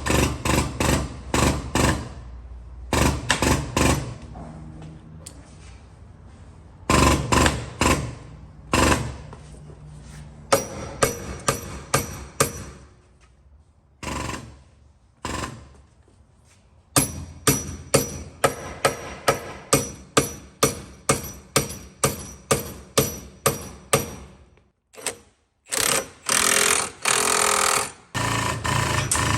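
Hammering on car-body steel during collision frame straightening: runs of sharp metallic blows, including a steady series of about three strikes a second, with denser rapid bursts near the start and near the end.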